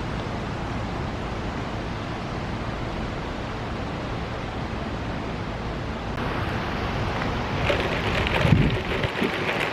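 Steady rushing noise, like wind buffeting the microphone. About six seconds in it changes abruptly to a brighter, hissier noise with a few louder bumps near the end.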